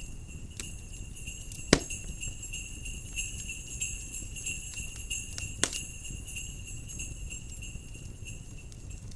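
Jingle bells ringing steadily over a crackling fireplace fire, with two sharp pops from the fire, the louder one a little under two seconds in and another at about six seconds; the bells stop near the end.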